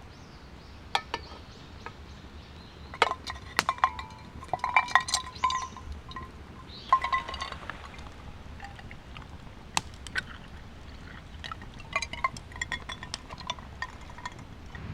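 Metal cookware and utensils clinking and ringing against each other, in irregular clusters with single sharp taps in between.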